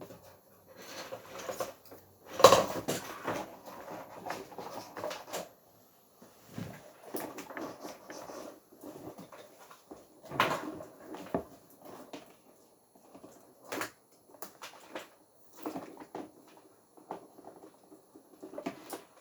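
Irregular knocks, clicks and handling noises of objects being moved about, the loudest knock about two and a half seconds in and another strong one about ten seconds in.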